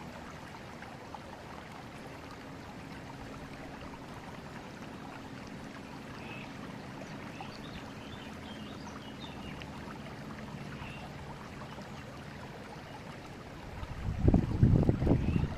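River water flowing steadily over its bed. Near the end comes a loud, low buffeting burst lasting about a second and a half.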